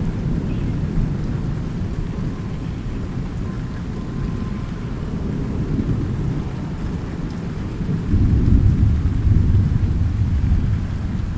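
Thunderstorm: low rolling thunder rumbling over steady rain, with the thunder swelling louder about eight seconds in.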